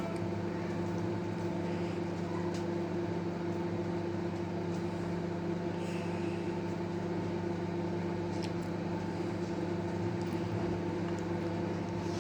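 LG microwave oven running: a steady electrical hum with a fan, unchanging in level, with a few faint ticks.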